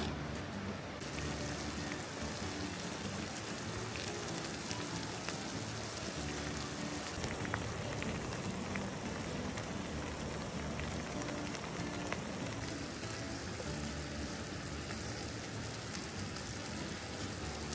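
Food sizzling and spitting in a hot pan, a steady crackling hiss.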